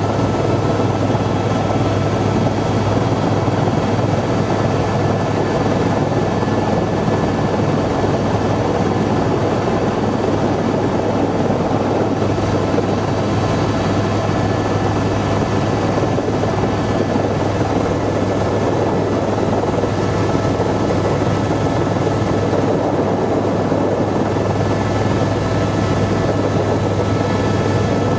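Helicopter rotor and turbine noise heard from inside the cabin in flight: a loud, steady drone with a strong low hum and faint constant whines.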